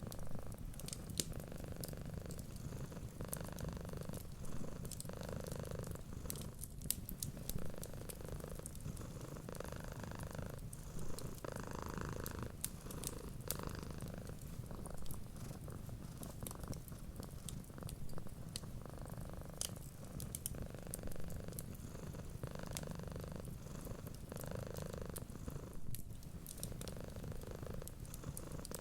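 Domestic cat purring steadily and close, a continuous low rumble that swells and eases with each breath every second or two. Sharp little pops and crackles of a wood fire sound over it throughout.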